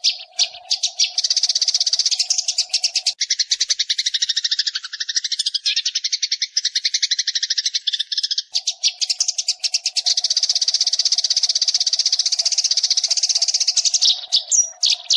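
Sparrows chattering: a dense, continuous stream of rapid, high chirps, played as a lure call to draw sparrows in for trapping.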